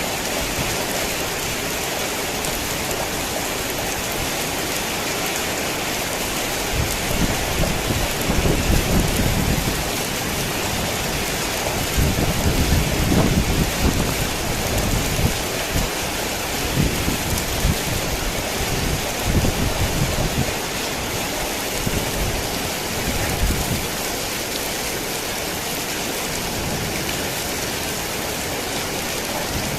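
Heavy rain falling steadily, with low rolling rumbles of thunder that swell and fade several times through the middle of the stretch.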